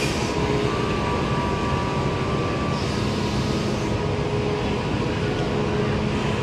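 Steady low mechanical rumble and hum of a ro-ro ferry's machinery as its ramp door is lowered towards the quay, with a brief hiss about three seconds in.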